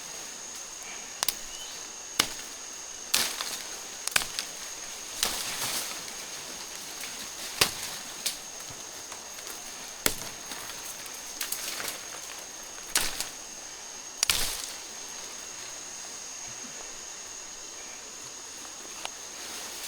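A blade chopping into wood: about a dozen sharp, irregular strikes, some close together in pairs. A steady high-pitched whine runs underneath.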